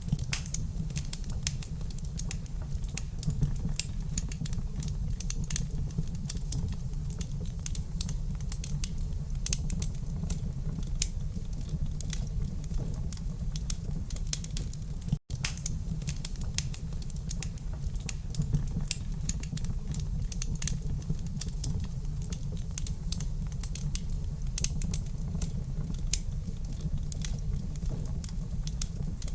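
Wood fire crackling in a fireplace: a dense, irregular stream of small pops and snaps over a steady low rumble. The sound drops out for an instant about halfway through.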